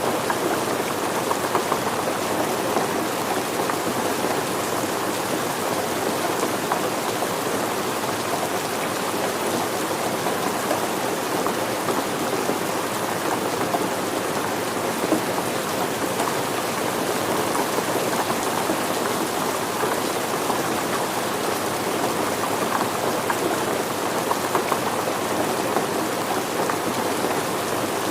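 Steady rain falling, a dense, even patter of drops on surfaces that keeps up without letting off.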